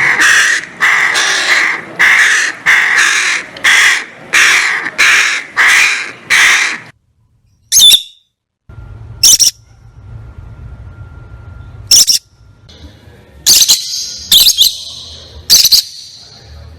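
A bird giving a run of harsh, squawking calls, about one every two-thirds of a second for the first seven seconds. After a brief silence, a handful of short, sharp, high-pitched calls follow.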